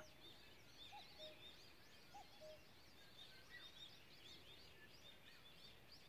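Faint dawn chorus of many small birds chirping, with a few short lower calls about one and two seconds in.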